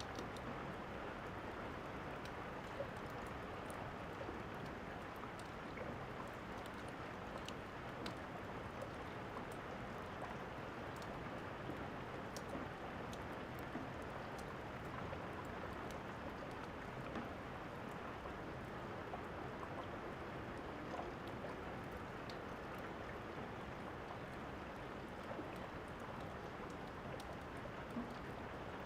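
Steady rain, with small scattered crackles of a fire over it.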